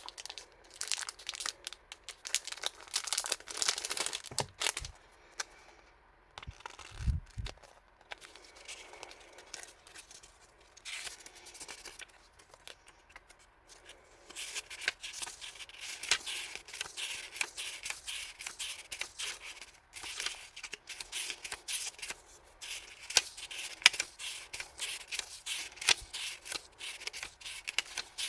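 Packaging being opened by hand: plastic and paper crinkling, rustling and tearing in irregular spurts, with a dull knock about seven seconds in.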